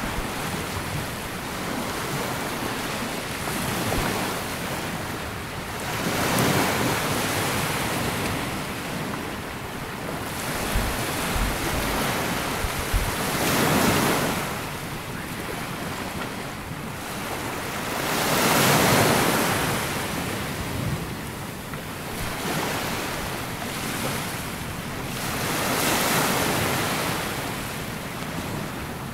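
Sea waves breaking and washing up a sandy beach, the surf swelling and falling back every few seconds, with the strongest surge about two-thirds of the way through.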